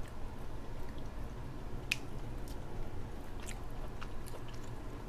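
Close-miked eating sounds of a person chewing crab, with scattered short sharp clicks and smacks, the loudest about two seconds in.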